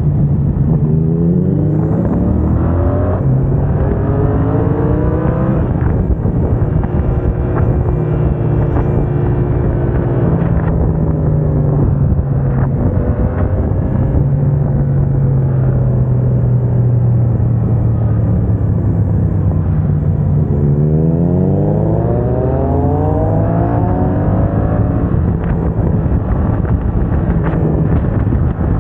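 Yamaha MT-07's parallel-twin engine through a MIVV aftermarket exhaust, accelerating with its pitch climbing and dropping through several quickshifted upshifts, then running at a fairly steady pitch. About twenty seconds in it pulls hard again, climbing through a few more gears before settling back.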